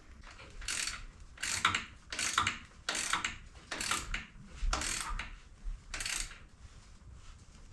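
Hand ratchet wrench being worked in about eight quick, evenly paced strokes, its pawl clicking on each back-swing as a fastener is run in.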